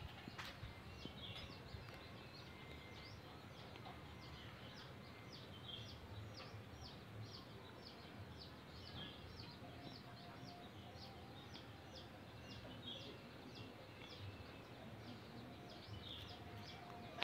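Faint outdoor background with a bird chirping over and over, about two short falling chirps a second.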